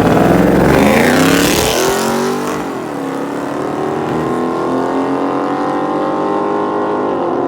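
Car engine under hard acceleration, starting suddenly at full throttle; its pitch falls over the first couple of seconds, then climbs steadily as it pulls through a gear and dips near the end as it shifts.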